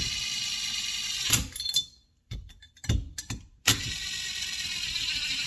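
A small handheld power tool runs steadily with a whine for about a second, stops for a couple of seconds of clicks and knocks, then runs again from a little past the middle, drilling gas ports into a chainsaw piston.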